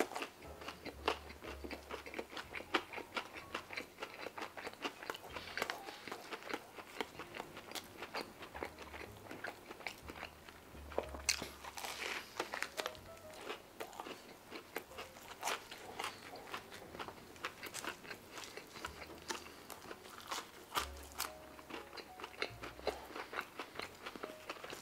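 Close-up chewing and biting of a crispy fried chicken slider: a steady run of crunches and mouth clicks, with a fresh big bite about halfway through.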